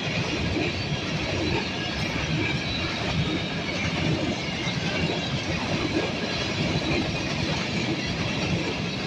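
Norfolk Southern grain train's railcars rolling slowly past: a steady rumble and clatter of wheels over the rail joints, with a faint wheel squeal.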